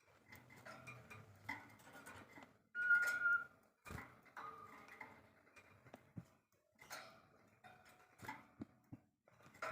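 Small songbird calling: a busy run of short chirps, clicks and ticks, with one clear whistled note about three seconds in.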